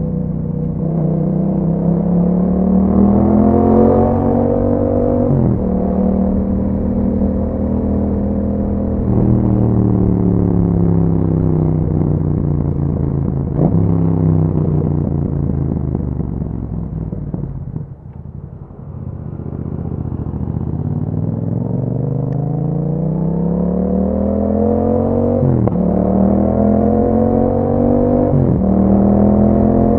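2021 Yamaha MT-07's 689 cc parallel-twin engine through an Akrapovic exhaust, accelerating through the gears with the pitch climbing and dropping sharply at each upshift. Around the middle it rolls off and winds down to a low, quiet dip, then pulls hard again with two quick upshifts near the end.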